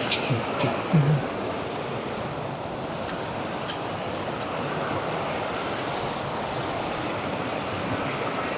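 Steady rushing of a Highland burn's waterfall cascades, with a few short knocks in the first second or so.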